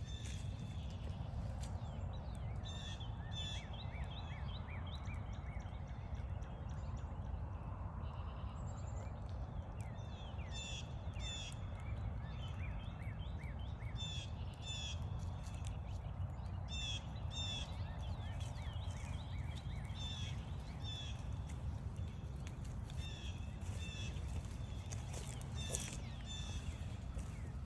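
Wild birds calling, with many short high chirps repeated in quick groups, over a steady low rumble.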